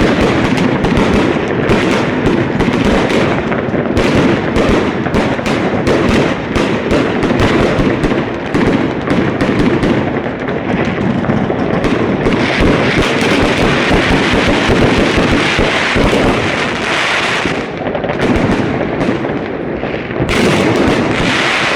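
Dense, continuous fireworks: many overlapping bangs, crackles and pops with no gaps, the sustained barrage of a city's fireworks going off together.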